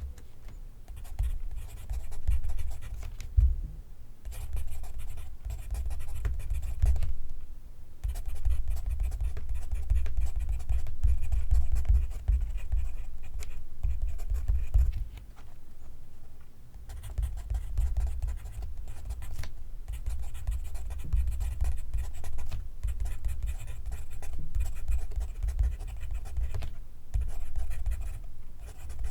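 Pencil writing on paper, close up: runs of scratchy strokes broken by short pauses.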